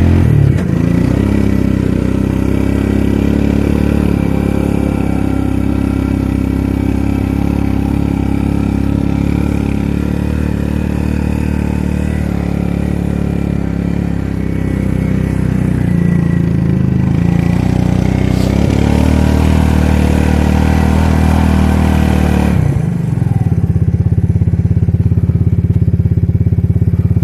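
Suzuki King Quad ATV engine running under load through deep snow, its note wavering with the throttle, with rough clattering over the snow. About 23 seconds in the noise drops away and the engine settles into a steadier, even drone.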